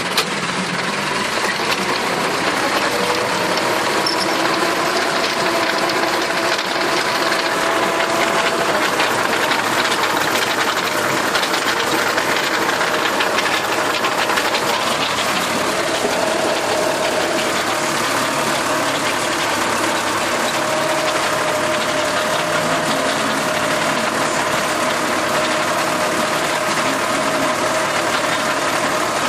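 Tractor engine running steadily with its rotary tiller working, a faint whine wavering in pitch over the engine noise.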